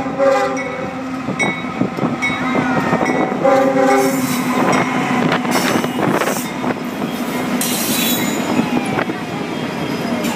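Diesel freight train passing close by: several short blasts of the locomotive horn in the first four seconds, then the locomotives' engines running and the double-stack container wagons rolling past with wheel clatter and squeal.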